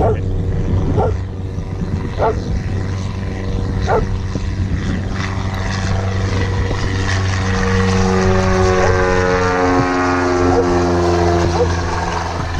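A small propeller plane's engine drones steadily overhead, growing stronger and shifting in pitch in the second half as it passes. A few short high chirps come in the first few seconds.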